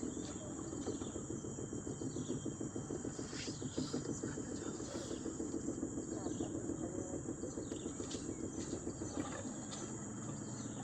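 Steady high-pitched insect drone over a low, steady, fluttering rumble, with a few short bird chirps.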